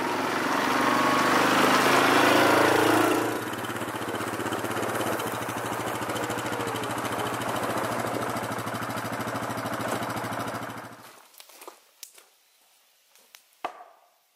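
Yamaha Grizzly 700 ATV's single-cylinder engine running, louder for the first three seconds, then running steadily until it shuts off about eleven seconds in. A few light knocks follow.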